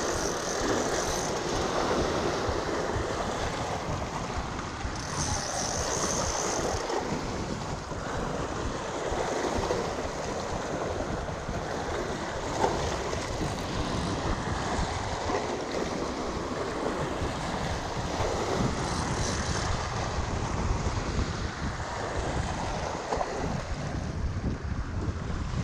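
Wind buffeting the microphone: a steady rushing, rumbling noise with no distinct events.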